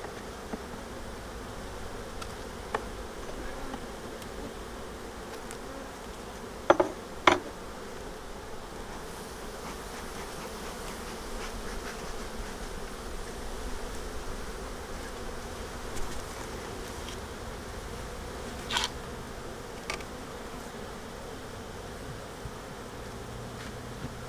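Honeybees humming steadily around an open hive, broken by a few sharp knocks of wooden hive parts being set in place, the loudest two close together about seven seconds in.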